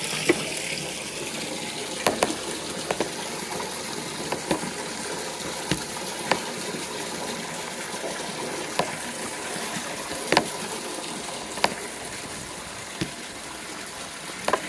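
Water running and splashing while a motorcycle is being washed, with scattered sharp clicks at irregular intervals.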